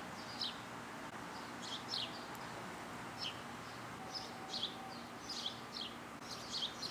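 Birds chirping: many short, quick chirps that sweep downward in pitch, scattered irregularly through the whole stretch over a faint steady background noise.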